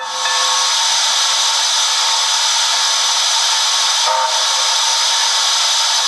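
Sound-fitted OO gauge model steam locomotive playing a steady steam-hiss effect through its speaker, starting and stopping abruptly.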